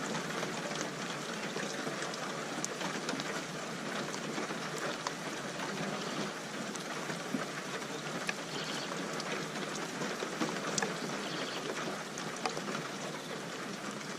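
Steady rain falling, with many scattered sharp ticks of individual drops striking a surface.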